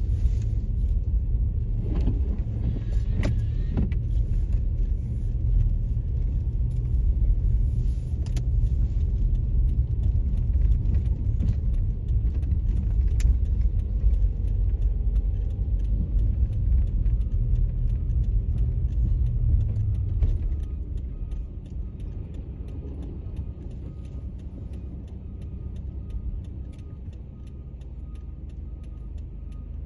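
Steady low motor-vehicle rumble that drops noticeably about twenty seconds in.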